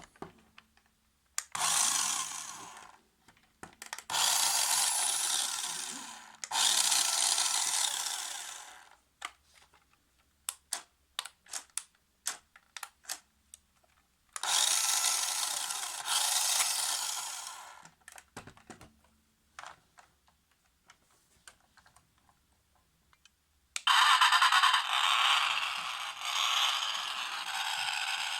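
Small electric motor of a 1:16 toy remote-control car whirring in five runs of a few seconds, each winding down, with light plastic clicks and taps between the runs.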